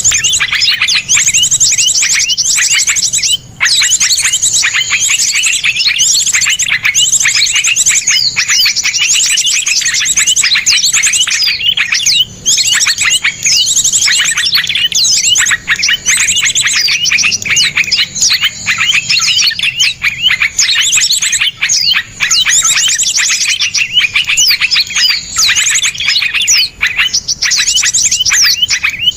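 Small songbirds singing without a break in dense, rapid trills and high chirps. These are the harsh, fast 'tembakan' phrases of a masteran recording used to tutor caged songbirds.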